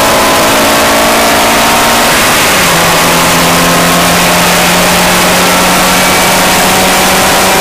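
Car engine running hard at track speed, heard from inside the cabin over loud road and wind noise; the engine note steps down slightly about two and a half seconds in.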